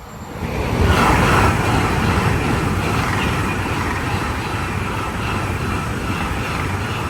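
A train passing close by. Its noise climbs quickly to a peak about a second in, then holds as a loud, steady rumble of wheels on rail.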